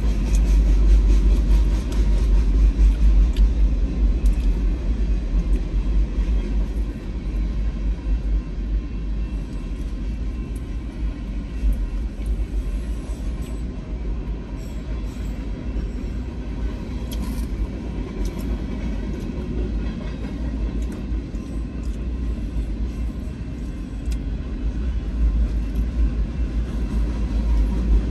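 Freight train rolling past: a steady low rumble of rail cars on the track, easing slightly midway, with a few faint high clicks.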